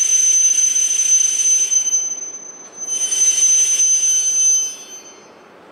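E5 series Shinkansen train at the platform: a loud, steady, high-pitched squeal over a rushing hiss. It fades about two seconds in, comes back a second later and stops near the end.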